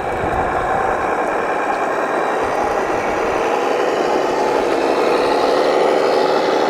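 Radio-controlled model construction vehicle running steadily, a continuous mechanical hum that grows slightly louder in the second half.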